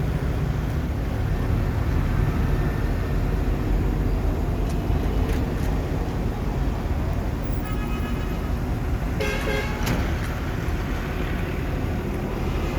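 A heavy machine's engine running with a steady low rumble. A short horn-like toot sounds about nine seconds in.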